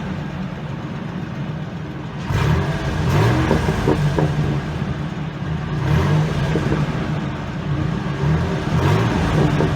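Exhaust of a 2003 Ford F-150's 4.2-litre V6 running, a steady low drone that swells louder about three times, a few seconds apart.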